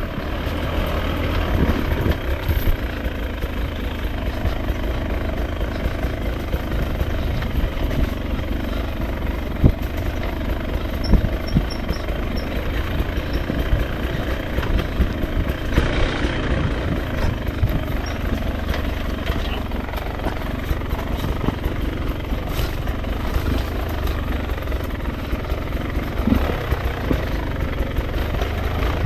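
Beta RR 300's single-cylinder two-stroke engine running steadily at a fairly even pitch, with a few short knocks along the way.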